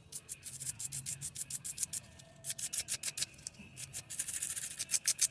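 Rapid back-and-forth scrubbing of the metal top burr from a Jura ENA Micro 1 grinder, about eight strokes a second, in runs broken by a short pause about two seconds in and a lighter stretch before a dense final run.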